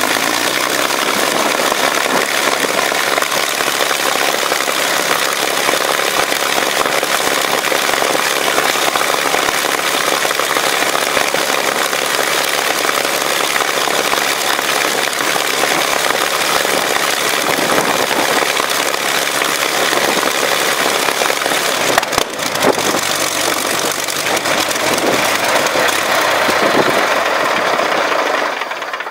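Rolls-Royce Merlin 500-29 supercharged 27-litre V12 aero engine running steadily on a test stand, with one sharp crack about two thirds of the way through. Right at the end the sound starts to die away as the engine begins to shut down.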